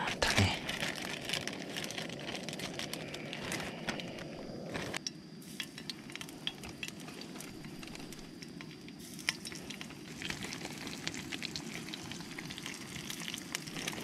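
Oil sizzling and crackling in a frying pan on a camping gas stove as pieces of kasago (scorpionfish) fry for karaage, a steady hiss with many small pops. A plastic zip bag crinkles as pieces are taken out of it.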